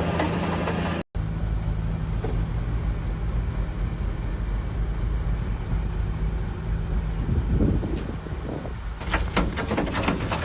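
Shantui bulldozer's diesel engine running steadily, with the sound cutting out briefly about a second in. From about nine seconds in come clattering and crunching, the tracks and blade working through dirt and rock.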